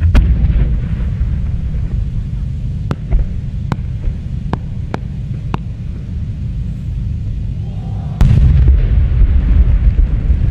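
Aerial fireworks shells bursting over a continuous low rumble: a scattering of sharp cracks, then a loud boom a little after eight seconds that gives way to heavy rumbling.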